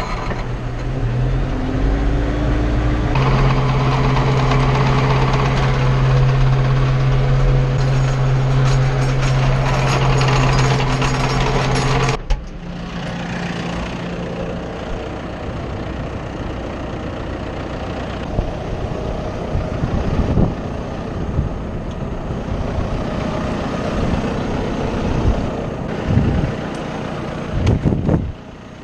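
Tractor engine running steadily, its revs rising in the first few seconds. About twelve seconds in the sound changes abruptly to a lower engine sound with scattered knocks and clanks.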